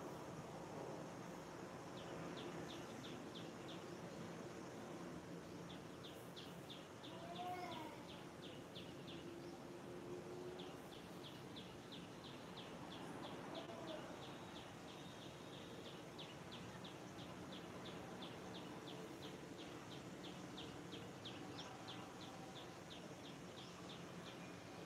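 A bird repeating a high chirp rapidly, about six notes a second, in long runs over a faint steady outdoor background. A couple of lower sliding calls come about a third of the way in and again about halfway.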